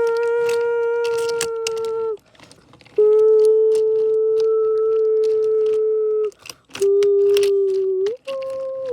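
Subway car wheels squealing against the rail on a tight curve: a loud, steady high tone that cuts out and restarts several times, changing pitch each time, with sharp clicks and rattles over it.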